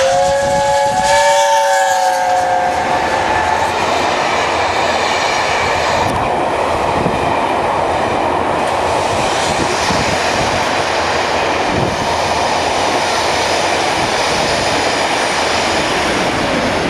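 Train horn sounding once for about three seconds, followed by the steady running noise of a passing train on the rails.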